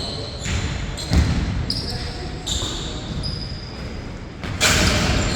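Basketball bouncing on an indoor court during a pickup game, with irregular thuds and short high sneaker squeaks echoing in a large hall. Near the end comes a louder, noisier burst lasting about half a second.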